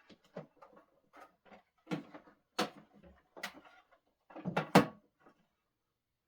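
A string of light irregular clicks and knocks, getting louder, with two sharp knocks in quick succession near the end.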